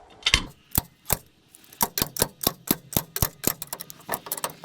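Hammer blows on metal: a run of about fifteen sharp strikes, speeding up from about two to about four a second, knocking at a seized torque rod to free it.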